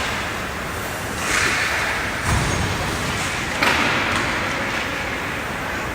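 Hockey game play: swells of scraping noise with two sudden dull thumps, the first a bit over two seconds in and the second about three and a half seconds in.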